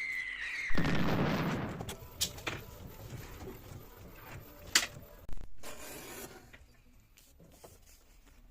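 A falling whistle, then about a second in a loud boom that dies away over a second or so. A few sharp clicks follow before the sound fades out.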